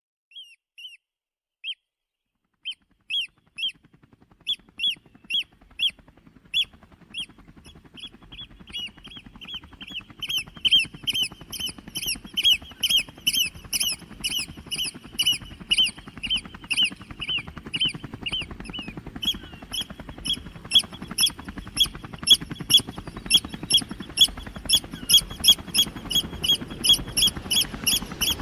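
Eurasian oystercatchers piping in alarm at an intruder: sharp, high, repeated calls. At first they come singly with gaps, then from about ten seconds in they run as a quick, near-unbroken series. A low, steady hum grows underneath from a few seconds in.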